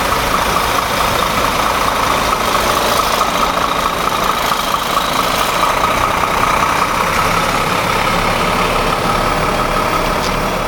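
Heavy truck's diesel engine idling steadily, with a constant whine on top.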